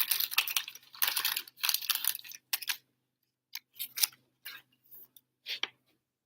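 Trading cards being handled: a run of rustling and sliding for the first few seconds, then a few separate short clicks and swishes as cards are flipped.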